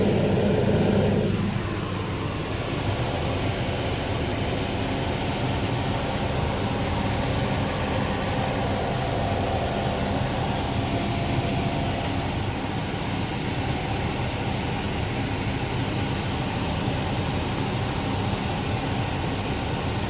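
Steady machine hum with an even hiss from a kitchen appliance running while the tomato sauce simmers. It is a little louder for the first second and a half, then holds level.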